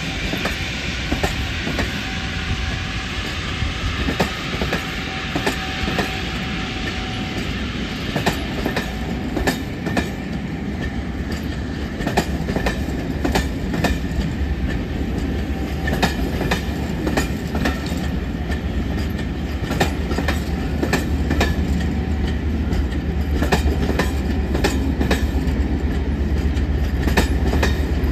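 Passenger coaches of a departing train rolling past, their wheels clicking irregularly over the rail joints over a steady rumble. The clicks come thicker after the first several seconds, and the low rumble grows louder toward the end.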